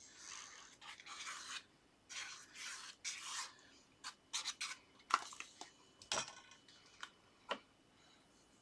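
Sheets of card and paper being handled on a craft desk: several soft rubbing swishes in the first few seconds, then a scatter of light taps and clicks.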